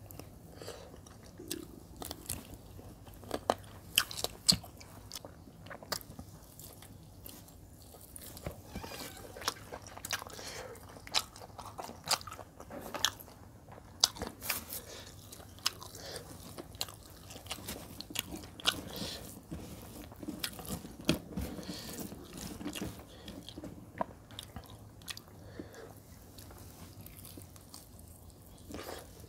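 Close-miked eating of chicken-leg curry with rice: biting and chewing, with frequent irregular sharp clicks and wet mouth smacks.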